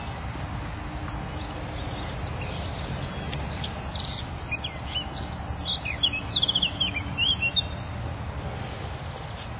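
A small bird singing a series of quick high chirps and trills, starting about three seconds in and loudest about two-thirds of the way through, over a steady low rumble.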